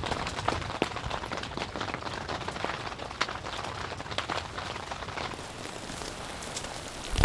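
Irregular pattering of drops on a surface, many sharp ticks over a steady hiss, typical of rain or meltwater drips on a tent. A single louder knock comes right at the end.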